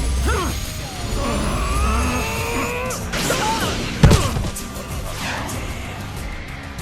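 Action-film soundtrack: chase music with sound effects, and one sharp, loud crash about four seconds in.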